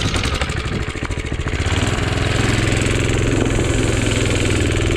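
Minibike's small single-cylinder engine running, picking up revs about a second and a half in and then holding a steady higher speed.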